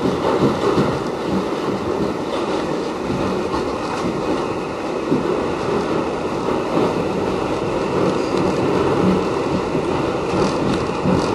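Westinghouse-built R68 subway car running between stations: a steady noise of steel wheels on rail and the car's running gear, without a break.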